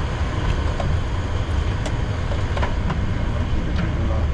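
Steady low rumble and hiss in a parked Boeing 737-800 cockpit with the APU powering the aircraft, with a few faint clicks about two and four seconds in.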